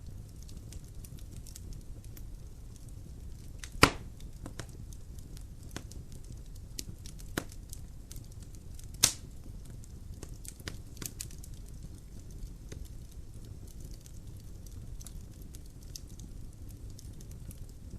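Logs burning in a fireplace, crackling: scattered small pops and ticks over a low steady rumble, with two loud sharp pops about four and nine seconds in.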